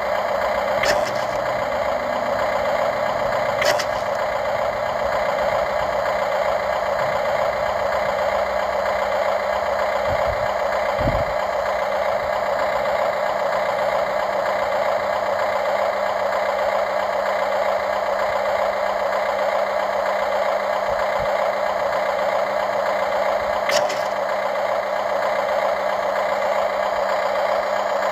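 Radio-controlled model excavator running: a steady, even mechanical whine from its motors and hydraulic pump, with a few sharp clicks.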